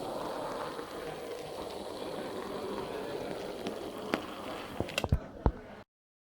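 Small electric model locomotive, a Bachmann HOn30 Skarloey, running on track: a steady motor whirr with wheel noise. A few sharp clicks follow about four to five seconds in, then the sound cuts off suddenly.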